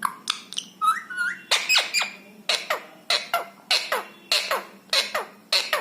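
Indian ringneck parrot (rose-ringed parakeet) giving a rapid run of short, shrill calls, each falling in pitch, several a second.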